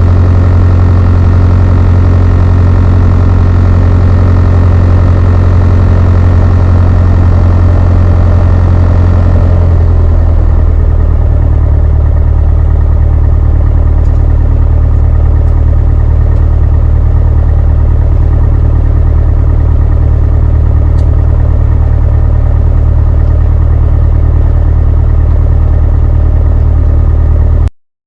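Beechcraft Sundowner 180's four-cylinder Lycoming engine running, heard from the cockpit. About ten seconds in the engine note drops as power comes off, and it runs on steadily at a lower, plainer note.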